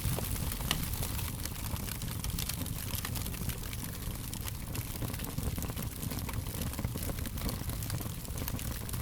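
Fire crackling: frequent quick pops and snaps, irregular and close together, over a steady low rush of burning.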